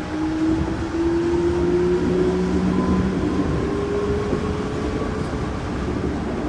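Yurikamome driverless rubber-tyred train heard from inside its front car: the electric traction motors whine, rising slowly in pitch as the train gathers speed, over a steady running noise.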